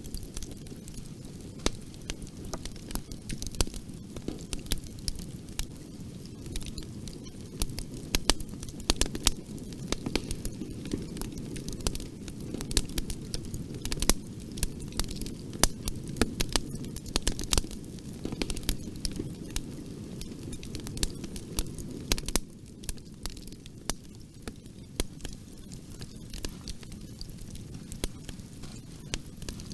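Wood fire in a fireplace crackling, with irregular sharp pops and snaps over a steady low rumble of burning; the rumble eases a little about two-thirds of the way in.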